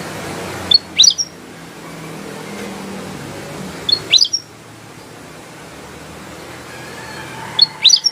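Kutilang emas bulbul calling: three short, sharp chirped phrases about three seconds apart, over a steady low background hum.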